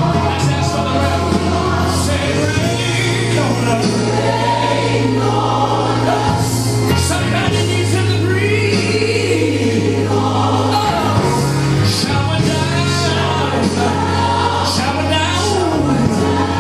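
Gospel music with a choir singing over held low bass notes.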